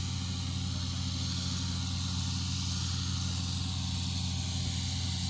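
Fairway mower's engine running at a steady, even hum while it cuts a freshly scarified fairway.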